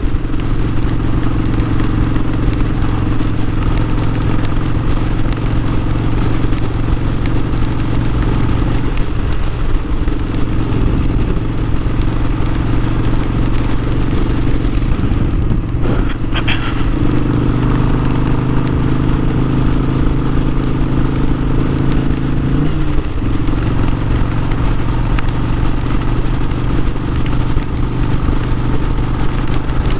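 Harley-Davidson Sportster 1200's air-cooled V-twin running steadily while riding, over road and wind rush. The engine note shifts pitch a few times, rising a little past the middle and dropping again about three quarters of the way through.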